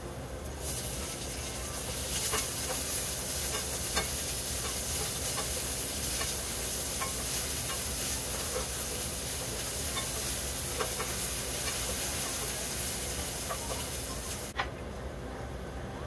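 Sliced onions sizzling in hot oil with minced garlic in a nonstick frying pan while a spatula stirs them, with scattered clicks and scrapes of the spatula against the pan. The sizzle starts about half a second in and cuts off sharply near the end.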